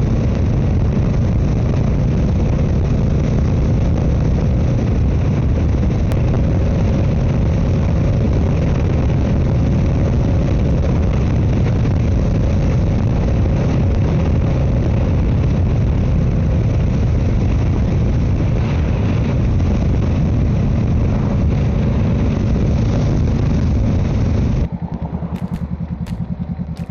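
Honda Rebel 500's parallel-twin engine running at road speed under loud, steady wind rush on the microphone. Near the end, the noise drops sharply, leaving the engine's lower, even beat.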